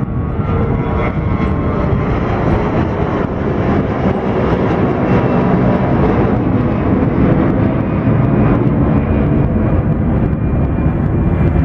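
Jet airliner's engines heard from close by, a dense, steady noise that swells over the first several seconds and then holds, with a faint thin whine at the start.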